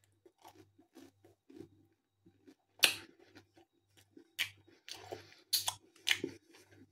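A person chewing a bite of cheese-stuffed pizza crust: quiet chewing with a few sharp clicks.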